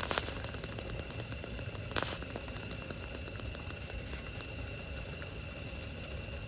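Steady hiss with light crackling, and two sharper clicks: one right at the start and one about two seconds in.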